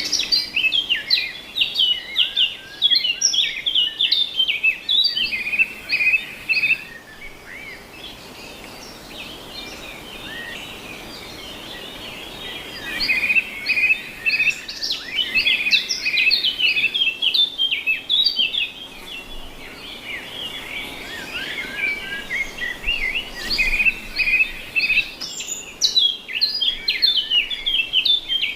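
Birds chirping and singing in busy bouts of quick, overlapping high notes, with a quieter spell of a few seconds partway through.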